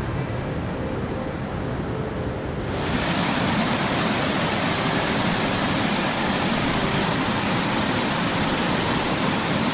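Rushing water, a steady noise with no rhythm; about three seconds in it changes abruptly to a louder, hissier rush.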